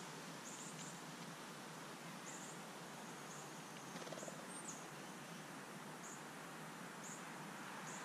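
Faint, short, high bird chip notes, about one a second at irregular intervals, over a steady outdoor hiss.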